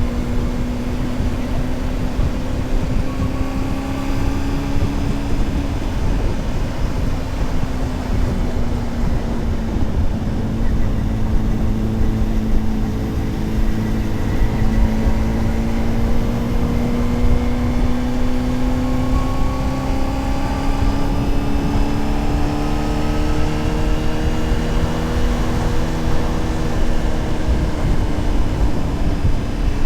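Honda CBR600RR's inline-four engine running at steady cruising revs, over heavy wind rush. Its note dips briefly early on, then slowly climbs and eases off again with gentle throttle changes.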